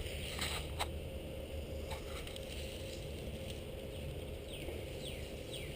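Outdoor background with a low steady rumble and a couple of faint clicks. About four seconds in, a bird starts a series of quick, high chirps, each falling in pitch, a few a second.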